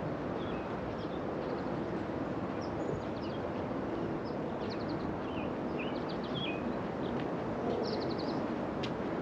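Small birds chirping and tweeting over a steady background rumble of outdoor noise. The calls are short and come every second or so, with a quick run of notes a little before the end.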